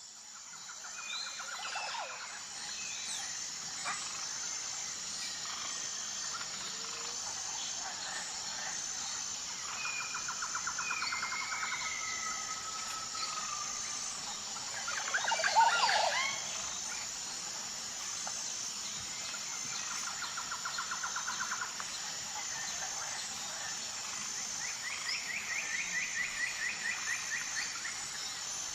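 Tropical forest ambience: a steady high-pitched insect chorus with a pulsing note, under birds calling in repeated trills and short whistles. A louder burst of calls comes about halfway through.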